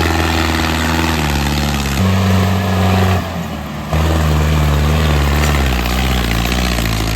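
Mahindra Arjun diesel tractor engine running hard under load, with the engine note shifting up and down in pitch several times and dropping briefly about three seconds in.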